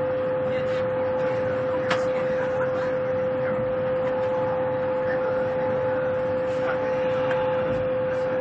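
Steady cabin noise inside a high-speed train running at speed: an even rushing hum with a steady high tone held at one pitch.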